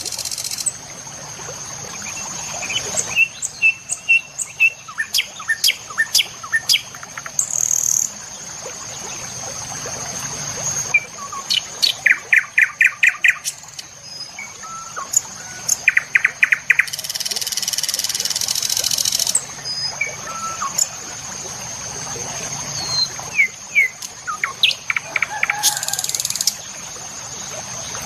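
Several birds chirping and calling in the morning, with short runs of rapidly repeated notes about twelve and sixteen seconds in. A steady high insect-like drone runs beneath, with a few brief bursts of high buzzing.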